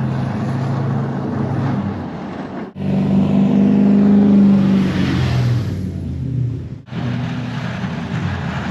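Diesel engine running steadily, the sound breaking off sharply twice and louder in the middle stretch.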